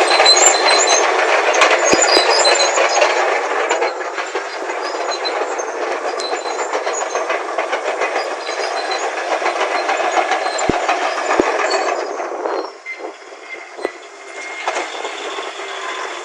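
Caterpillar D8N bulldozer at work: its diesel engine running under a continuous clatter of steel tracks, the sound dropping off sharply about twelve seconds in.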